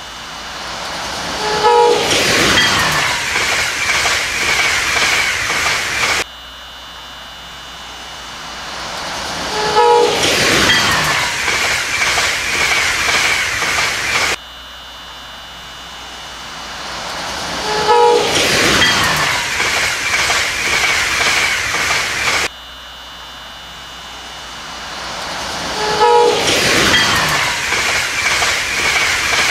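A passing train on a sound loop that repeats four times. Each time the train swells in as it approaches, sounds a short horn blast, then passes loudly with its wheels clacking over the rail joints, before the sound cuts back abruptly to the approach.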